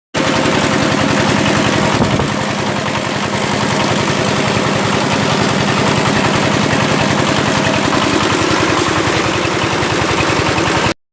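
Power tiller engine running steadily, driving a mini rice mill, with rapid even pulses.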